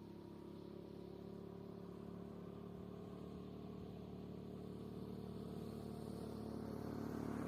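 A motor vehicle's engine running at a steady pitch, faint and slowly growing louder.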